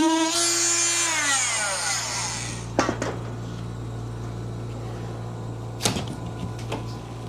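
Handheld power tool running at a steady high pitch, then released about a second in and winding down in a falling whine that fades out by about two and a half seconds. Two sharp knocks follow, about three seconds apart, over a steady low hum.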